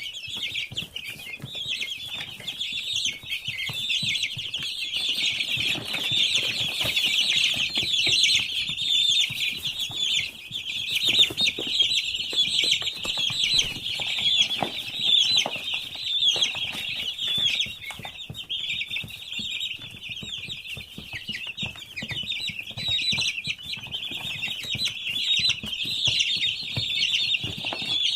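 Dense, continuous chorus of a large flock of broiler chicks peeping, many high-pitched calls overlapping without a break, with scattered low knocks and rustling underneath.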